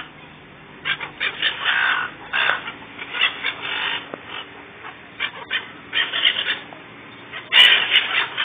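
A flock of silver gulls squawking, with many short, harsh calls overlapping in clusters and the loudest burst of calls near the end.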